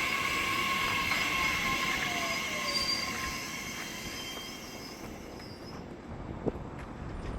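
Nishitetsu electric commuter train running past and fading away, with steady high-pitched wheel squeal and a lower whine that falls in pitch as it recedes. A single sharp click comes near the end.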